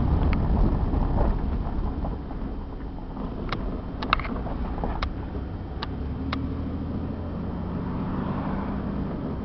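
Engine and road noise of a 1996 Chevrolet Camaro RS, heard from inside the cabin while driving. It is louder for the first second or so, then settles to a steadier, lower hum, with a few light clicks or rattles in the middle.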